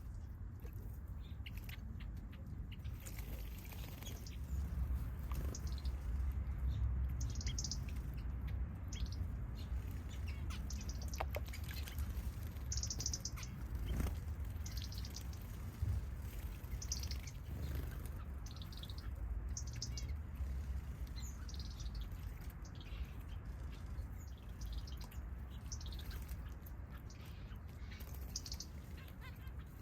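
Small aviary birds chirping: many short, separate high calls scattered throughout, over a steady low rumble.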